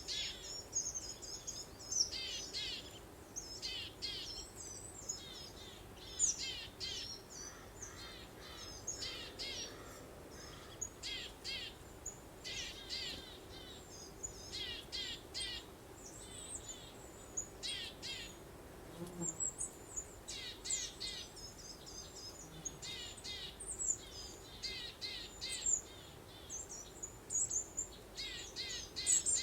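Several songbirds chirping and singing in short, quickly repeated phrases, one after another with brief gaps, over a soft, steady background of breeze.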